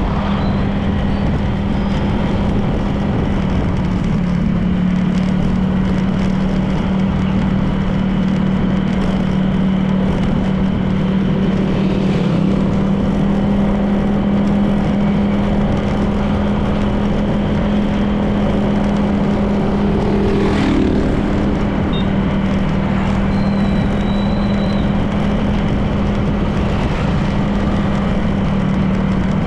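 Honda PCX 160 scooter's single-cylinder engine running at a steady cruise, its pitch holding nearly constant, under road and wind noise.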